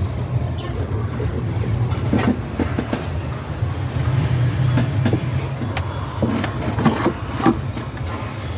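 Workshop sounds of hand tools on engine parts: scattered sharp clicks and knocks, louder near the middle and end, over a steady low hum.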